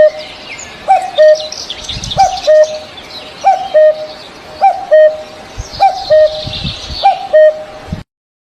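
Birds calling: one bird repeats a low two-part call, a short rising note and then a held note, about once a second, over scattered higher chirping from other birds. The calls cut off suddenly near the end.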